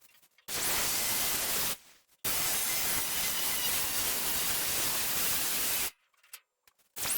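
Plasma cutter hissing in two long bursts, each starting and cutting off abruptly, as it cuts the rusted angle-iron section out of the car body.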